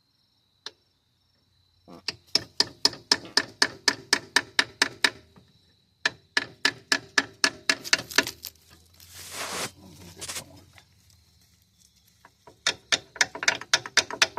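Hammer tapping a tool into a partially stripped fastener on a truck's front hub: quick, sharp metal-on-metal strikes at about four a second, in three runs, with a brief rushing scrape between the second and third.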